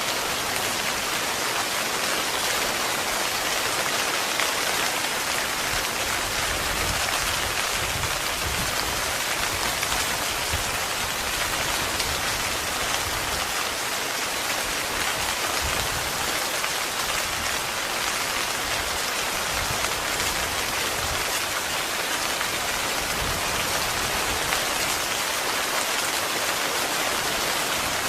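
Heavy rain falling steadily on a tent, a dense, even patter.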